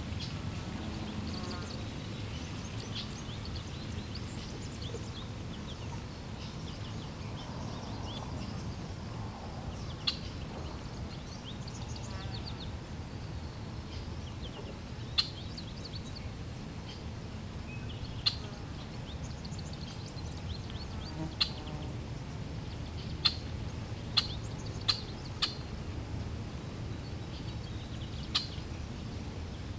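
Steady low rush of flowing water with birds chirping over it. About eight sharp, short chips stand out as the loudest sounds, mostly in the second half.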